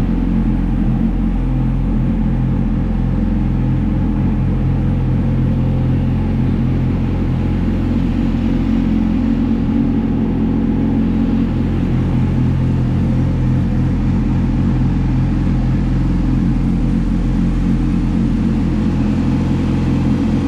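Yamaha YZF-R6's inline-four engine running steadily at a constant speed. The engine is hard to start, and the owner says it will only settle to idle after being brought up to about 4000 rpm, which he takes as a sign that something is wrong.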